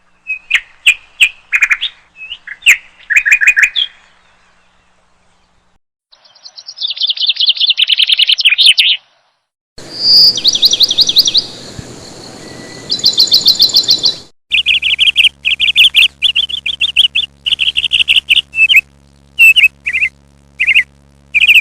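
Birds chirping and trilling: short sharp chirps, then fast runs of repeated notes, in several recordings joined one after another with sudden changes in the background hiss.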